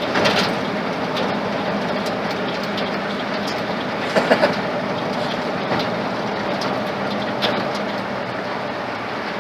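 Ford flathead engine idling steadily, with a short louder sound a little over four seconds in.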